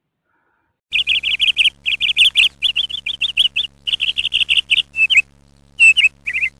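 Small birds chirping in quick runs of short high notes, starting abruptly about a second in, with short gaps between groups near the end, over a faint steady hum.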